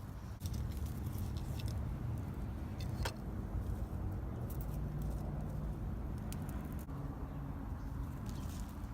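Low, steady rumble of distant vehicle traffic, with small scattered clicks and rustles of hands working garden soil while planting seedlings.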